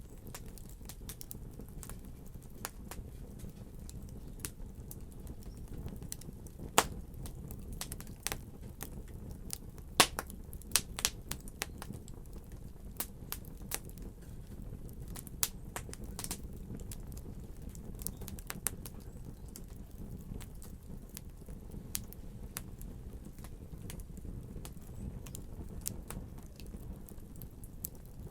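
Wood fire burning in a fireplace: a steady low rumble of flames with scattered sharp crackles and pops, a few louder snaps about 7 and 10 to 11 seconds in.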